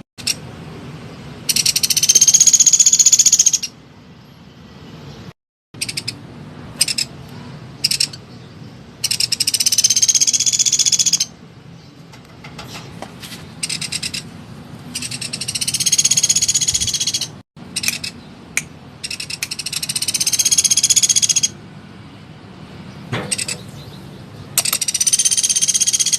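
Small woodpecker (pelatuk) giving loud, rapid trilling calls. There are five bursts of about two seconds each, a few seconds apart, with short sharp clicks in between.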